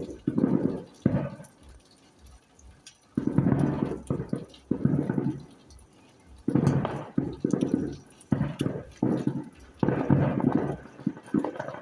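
People talking in short bursts with pauses between them.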